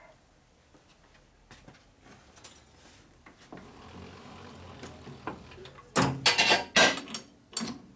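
Metal parts and tools being handled on a workbench: scattered light clicks, then a quick run of loud clanks and knocks about six seconds in.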